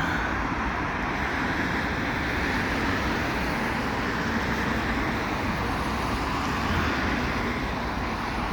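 Steady road-traffic noise, a continuous hiss and rumble of cars passing.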